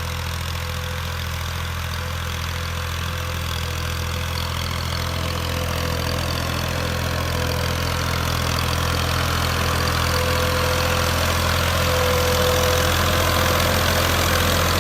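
Massey Ferguson 240 tractor's three-cylinder diesel engine idling steadily, slowly growing louder.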